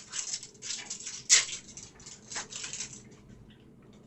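Thin plastic soft card sleeves crinkling and rustling as they are handled, in irregular bursts that stop about three seconds in.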